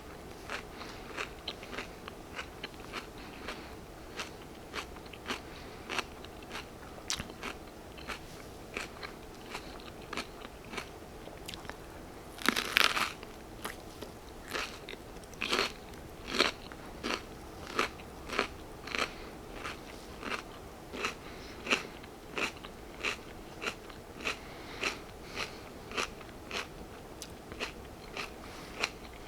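Close-miked crunchy chewing of raw baby bell peppers: a steady run of crisp crunches about once or twice a second, with one louder crunching bite about halfway through.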